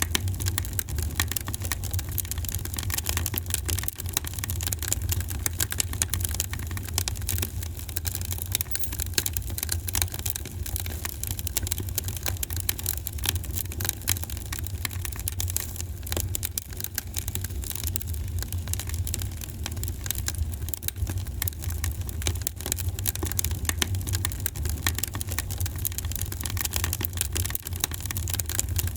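Wood fire in a fireplace crackling steadily, with dense small pops and snaps over a low, even rumble.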